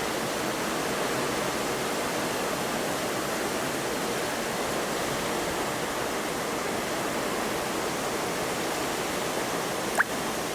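Heavy rain falling steadily, an even rushing hiss. A single sharp click about ten seconds in.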